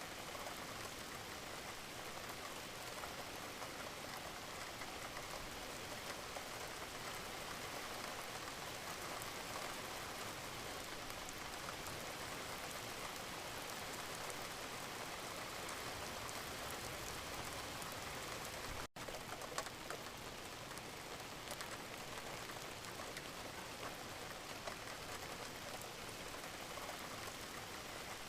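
Steady gentle rain, drops pattering evenly on a surface. About two-thirds of the way through, the sound cuts out for a split second and comes straight back.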